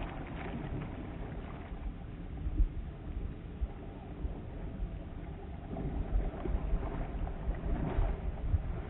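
Wind rumbling and buffeting on the microphone of a kayak on open water, with water noise underneath; the gusts pick up about six seconds in.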